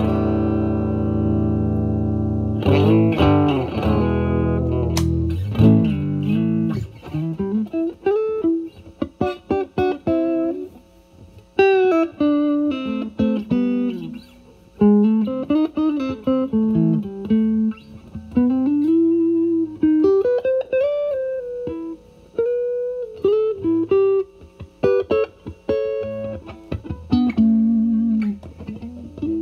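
Electric guitar (Stratocaster) through a Vertex Steel String Clean Drive overdrive pedal at full gain into a Valvestate amp's clean channel. A held chord rings out, then a few strummed chords, then a bluesy single-note lead with bent notes from about seven seconds in.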